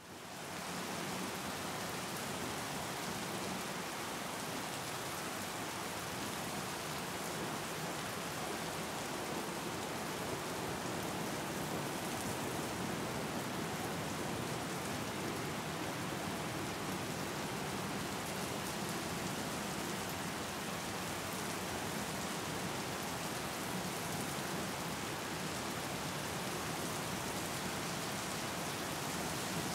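Steady hiss of heavy rain, fading in over the first second.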